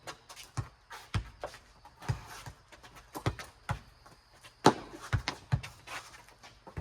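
A rubber playground ball in a four square rally: sharp smacks as it bounces and is slapped by hands, irregular, about one or two a second, with the loudest pair a little past the middle.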